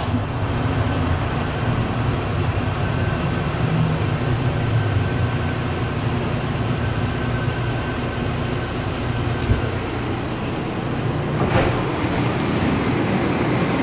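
Airport automated people-mover train running through its underground tunnel: a steady rumble with a faint whine above it. Near the end there is a short sweep of noise as the train stops and its doors slide open.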